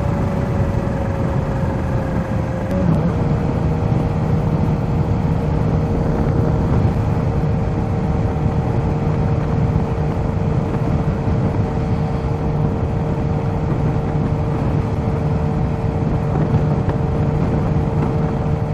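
Kawasaki Z H2's supercharged inline-four running steadily while riding, with road noise. The engine note dips and shifts about three seconds in, then holds even.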